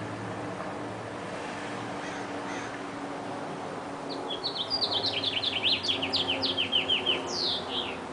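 A bird singing: a rapid run of short, high chirping notes, about six a second, begins about halfway through and ends in a longer falling note, over a steady low background noise.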